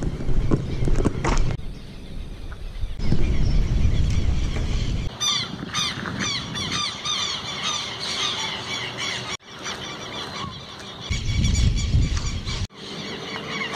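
Birds calling overhead: many short, high, downward-sliding calls in quick succession from about five seconds in, after a low rumble in the first few seconds.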